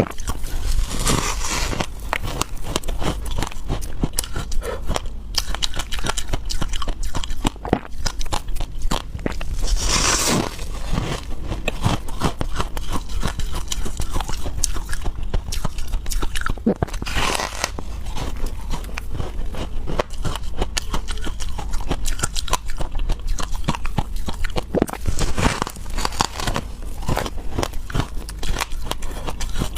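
Close-up crunching and chewing of freezer frost, a person biting into loose icy snow and chewing it. The crackle runs steadily, with louder crunches four times.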